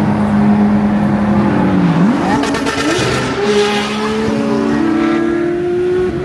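Porsche 992 GT3 flat-six engine running under way: the engine note dips about two seconds in, then climbs sharply in a loud rev and settles into a steady, higher drone.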